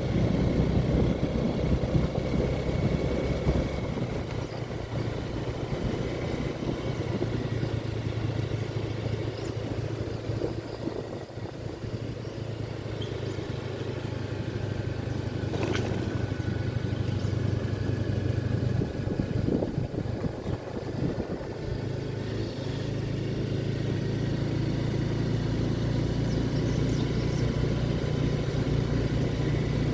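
A motor vehicle's engine running steadily as a low drone that eases off for a while past the middle and picks up again near the end, with a single sharp click about halfway through.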